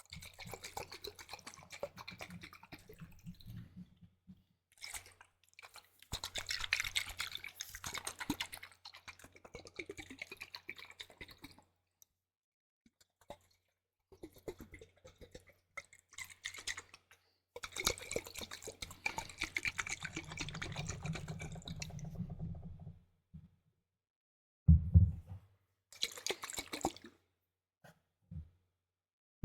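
Liquid ASMR sounds made close to the microphone: water dripping and sloshing in bursts of a few seconds, with short silences between them. Near the end comes a brief loud bump.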